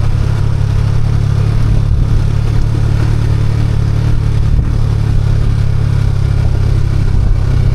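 Motorcycle engine running steadily on the move, a constant low rumble with road noise.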